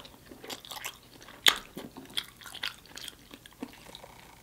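Close-miked chewing of saucy rotisserie chicken: scattered wet mouth clicks and smacks, the loudest a sharp click about one and a half seconds in.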